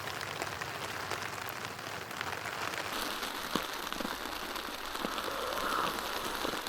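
Steady rain falling, the hiss full of many small ticks of individual drops hitting a surface.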